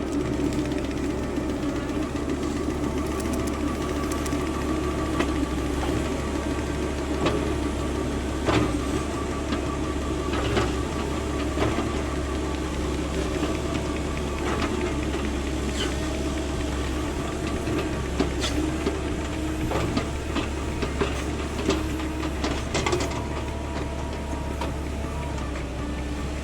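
Diesel engine of a CAT 310 excavator running steadily under work, with scattered sharp knocks and cracks throughout.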